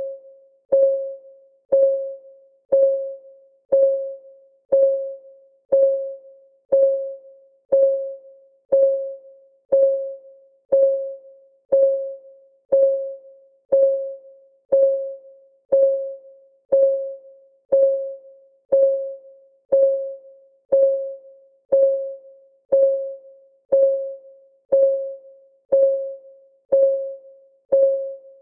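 Steady clock-ticking sound effect of a countdown timer: one short, pitched tick each second, each dying away quickly.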